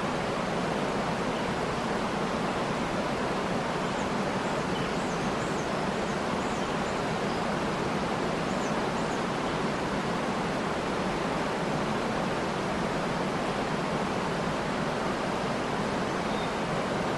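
Waterfall rushing steadily, with a few faint high bird chirps between about four and nine seconds in.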